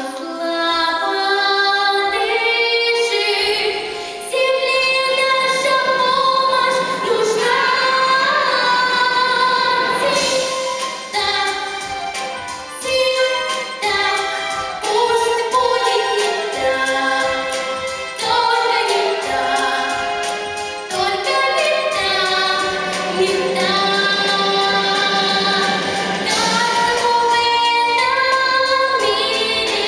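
A girl singing a pop song in Russian over a backing track, with choir-like backing vocals.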